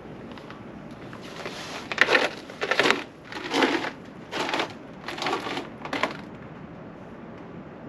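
Crunching footsteps, six steps a little under a second apart.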